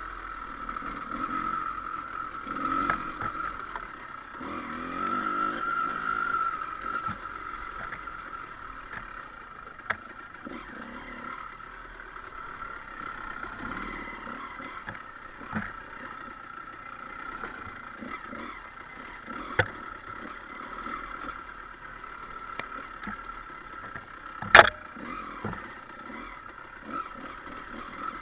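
Dirt bike engine running on a trail with a steady whine, the low rumble rising and falling early on, and scattered sharp knocks and clatter, the loudest knock near the end.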